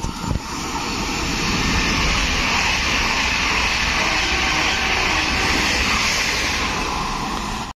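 Electric passenger train passing at speed, a loud steady rush of wheel and air noise that builds over the first second or two.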